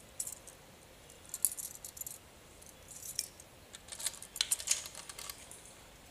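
Light jingling and clicking of small metal objects in several short clusters, the loudest about four and a half seconds in.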